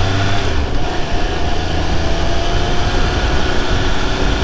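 Triumph Speed Triple 1200 RR's three-cylinder engine pulling steadily while riding, its note rising slowly, over heavy wind rumble.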